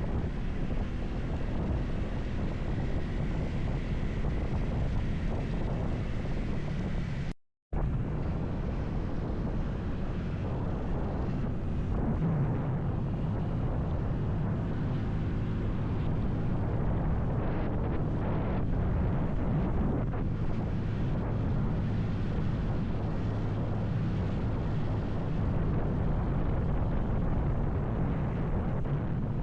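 Motorcycle engine running at a steady pace while riding, with wind buffeting the microphone. The sound cuts out completely for a moment about seven seconds in.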